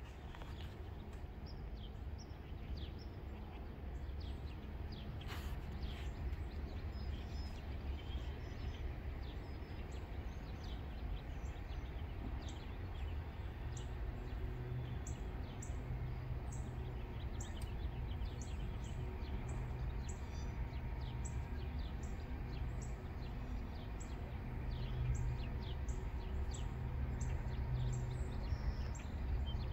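Small birds chirping, with many short high calls repeated throughout, over a steady low rumble that slowly grows louder.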